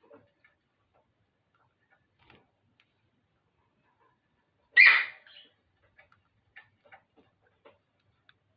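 A parrot gives one loud, harsh squawk about five seconds in, amid faint scattered clicks and taps.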